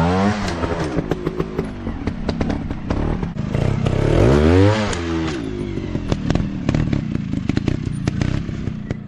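Dirt bike engine revving up and back down twice, once right at the start and again about four to five seconds in, with the engine running and loose clattering and ticking between the revs.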